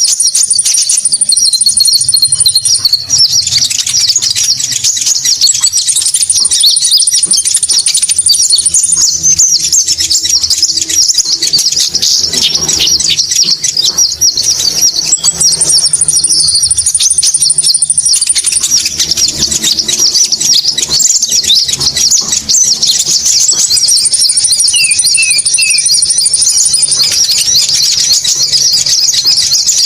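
Konin bird lure recording: dense, high-pitched, chattering birdsong that runs on without a break, with a thin, even trill of about three seconds laid over it four times.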